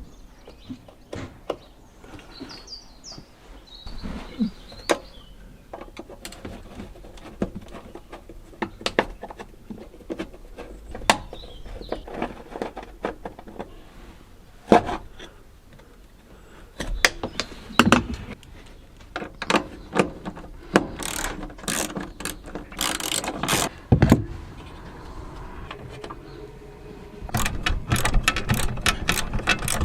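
Hand tools working on fasteners: scattered metallic clicks and knocks, then a quick run of ratchet clicks near the end. A bird chirps briefly a few seconds in.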